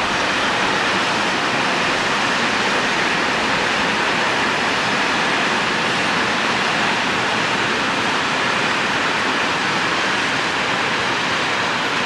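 A train passing, its wheels and wagons making a steady rushing noise with no clear beat.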